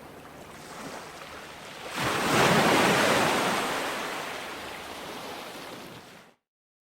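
Ocean waves on a beach: a wave breaks with a sudden rush about two seconds in, and its wash slowly fades. The sound then cuts off abruptly to dead silence near the end.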